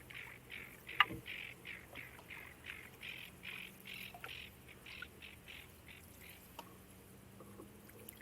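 A bird calling in a rapid series of short calls, about three a second, fading out after about six seconds. A sharp knock about a second in.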